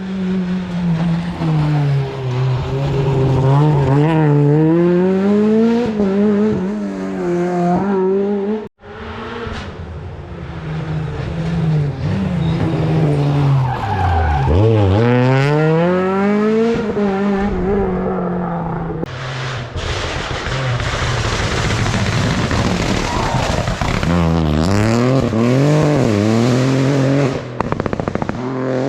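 Rally cars driven hard on a closed stage, engines revving high with the pitch climbing and dropping again and again through gear changes and lifts, and some tyre noise on the loose road. The sound cuts out abruptly about nine seconds in and picks up straight away on another car.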